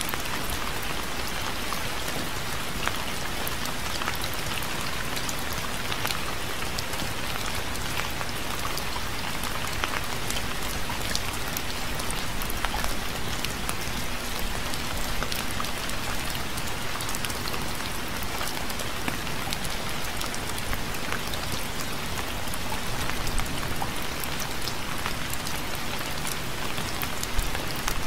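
Steady rain falling on a surface, a dense even hiss with many distinct drop ticks and no thunder.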